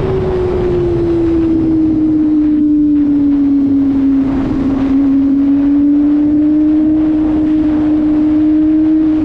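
Kawasaki ZX-25RR's 250 cc inline-four engine running at high revs on the move. Its pitch eases down over the first few seconds, then holds steady with a slight rise.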